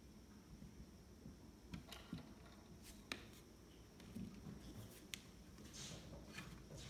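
Near silence with faint scattered clicks and soft rustles from a mother cat grooming a squirming kitten, the sharpest clicks about three and five seconds in, over a faint steady high hum.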